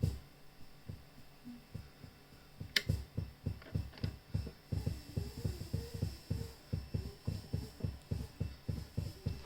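Behringer MURF filter pedal leaking a rhythmic train of short, low pulses, about four or five a second, in time with its step pattern, which the owner takes for a noisy internal clock and fears is a fault in his unit. A sharp click comes about three seconds in, and the pulsing runs on steadily after it.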